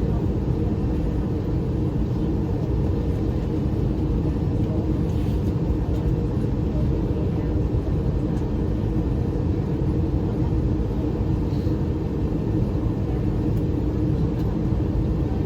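Steady low rumble inside the cabin of an Airbus A320 after landing, with a few faint steady hums through it and no sudden sounds.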